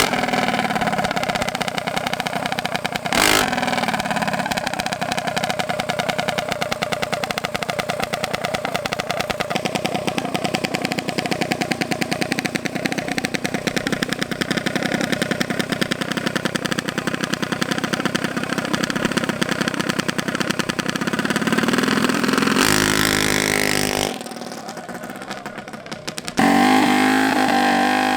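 Mini bike's small gas engine running hard at a steady speed, with a sharp knock about three seconds in. Near the end it revs up, drops off suddenly for a couple of seconds, then runs hard again.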